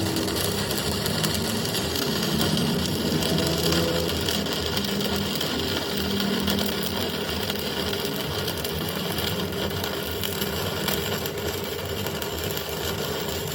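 Steady, dense hissing machine noise from metal repair work, with a low hum beneath it, cutting in and out abruptly.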